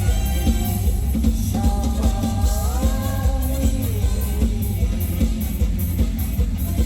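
Mor lam band music with a steady drum-kit beat and heavy bass, and a singing voice gliding between held notes for a few seconds.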